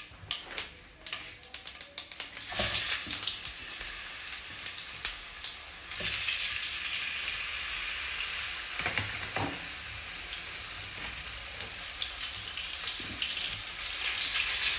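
Cumin seeds crackling and spitting in hot oil in a frying pan, then thick potato slices sizzling steadily as they fry. Near the end the sizzle grows louder as a spatula turns the potatoes.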